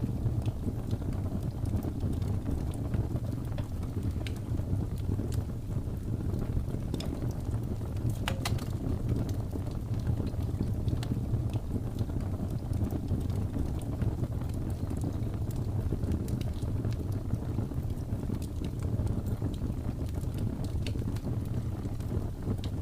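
Wood fire crackling with scattered small pops, a little cluster of them about eight seconds in, over a steady low rumble of blizzard wind.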